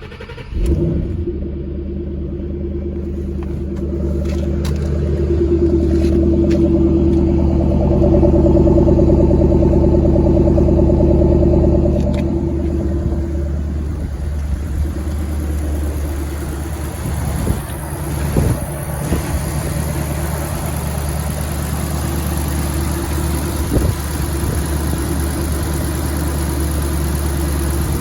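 Ford Shelby GT500's V8 starting about half a second in, then running at a raised cold-start fast idle that settles to a lower, steady idle about 13 seconds in.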